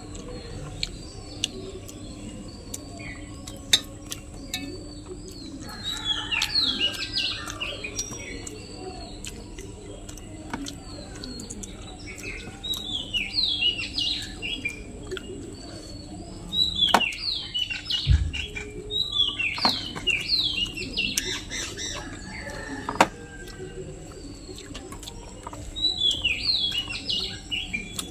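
Birds chirping in four spells of quick, falling notes, with scattered small clicks in between.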